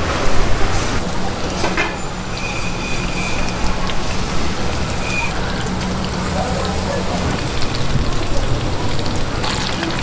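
Busy street-food market ambience: a steady hiss with a low hum, a few clicks and faint voices, and a thin high beep heard twice, once about two seconds in for about a second and again briefly about five seconds in.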